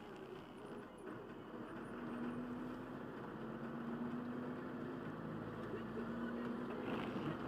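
Truck engine and road noise heard from the cab, a steady drone with a low hum that grows louder about two seconds in.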